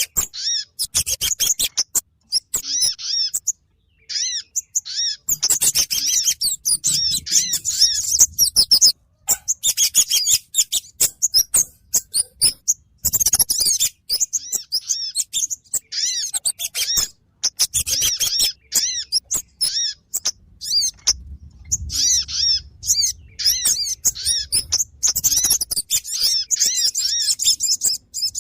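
Lure-call recording of the small songbirds called kemade and sogon, used to draw them in for trapping: fast, high twittering chirps in dense bursts with short breaks between them.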